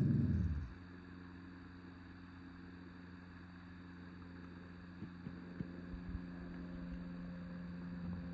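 A blue heeler dog's low growl, dying away within the first second. A steady low hum follows, with a few faint knocks about five to six seconds in.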